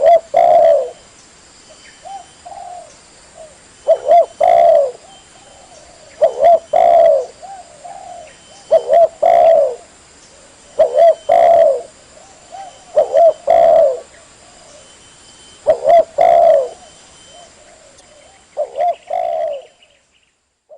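Spotted dove (tekukur) cooing: a phrase of short notes ending in a longer falling coo, repeated about every two to three seconds, with softer coos between. The calling stops just before the end.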